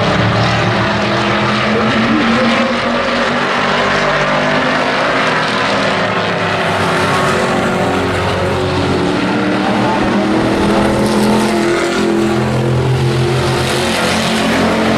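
Several race trucks' engines running together around a speedway oval. Their pitches rise and fall as they lap, with the noise swelling as trucks pass, about halfway through and again near the end.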